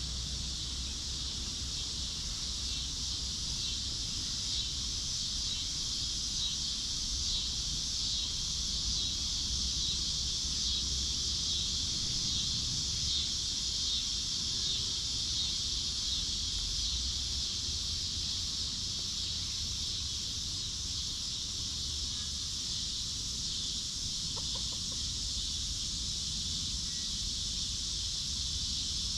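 Chickens clucking now and then as they forage, over a steady high-pitched buzzing hiss that runs throughout, with a low rumble of wind underneath.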